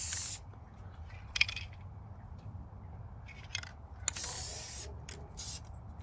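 Spray paint hissing out in several short bursts as tractor parts are painted, one burst lasting about a second.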